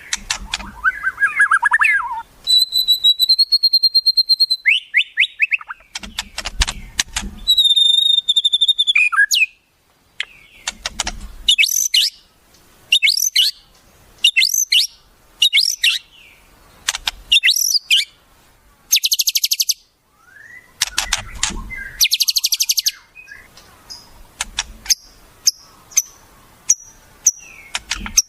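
Wild bird songs played as a tutor recording for white-rumped shamas: a varied run of separate phrases. It goes from held clear whistles to rapid clicking rattles, repeated downward-sweeping notes and a fast, high buzzing trill, with short pauses between.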